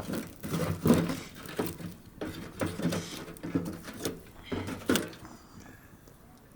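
A series of about ten dull knocks, roughly two a second, stopping after about five seconds.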